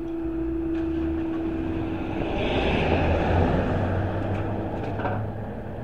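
A passing vehicle: its noise swells and fades in the middle over a low steady hum. A single steady tone holds until about three-quarters of the way through, then stops.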